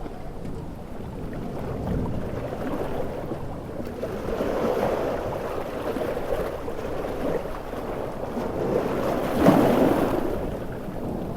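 Storm surf: ocean waves washing in and breaking in swells over a steady hiss of heavy rain, with one louder crash near the end.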